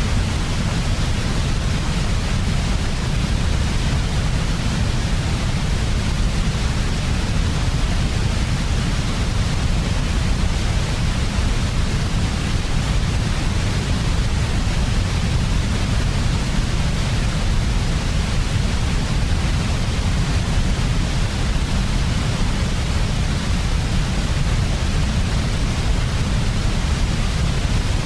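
Steady, unbroken white noise for a baby's sleep, with a heavier low rumble in the bass and no changes or events.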